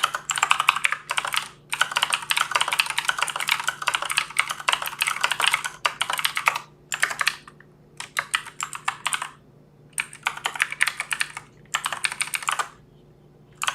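Fast typing on a computer keyboard: rapid runs of key clicks, broken by short pauses about seven seconds in, around ten seconds, and near the end.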